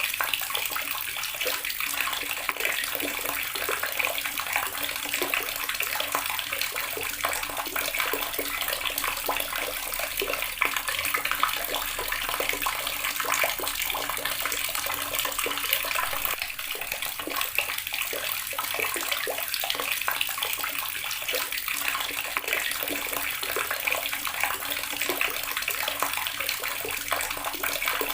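Water tap running steadily, its stream splashing into a basin.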